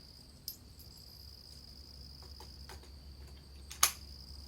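Crickets chirping steadily in a high, even band, with a few faint clicks. About four seconds in comes a single sharp crack of a .22 LR rifle shot, the first round of SK Long Range Match fired to check where it hits.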